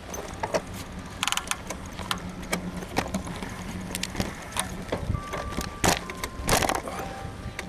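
Full-suspension bicycle frame creaking and clicking, with sharp knocks, two short rattles and a couple of brief squeaks over a low steady hum. The rider puts the creaking down to a worn suspension bushing in the frame.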